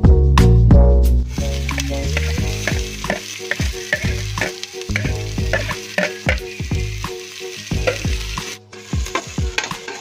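Garlic and chopped onion sizzling in hot oil in a steel pot, stirred with a spoon; the sizzling starts about a second in, over background music with a beat.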